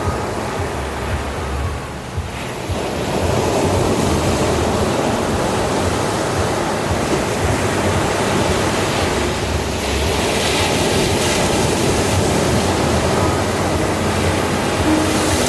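Ocean surf: waves breaking and washing in as a continuous rushing noise. It eases briefly about two seconds in, then swells again, with a brighter surge about ten seconds in.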